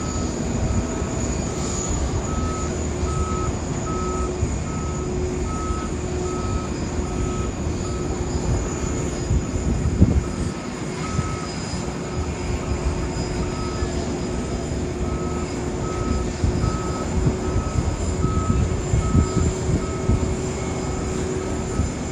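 Backup-style warning beeper on an aircraft tow tug, sounding short beeps at one pitch, roughly one a second, with a pause of a few seconds midway. Under it runs a continuous low rumble with a steady hum.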